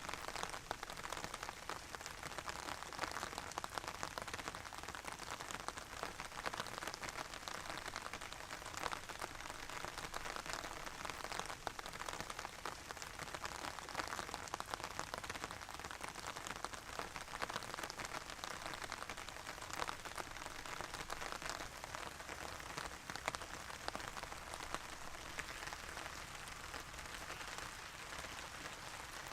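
Steady, calm rain falling on surfaces, a dense patter of individual drops.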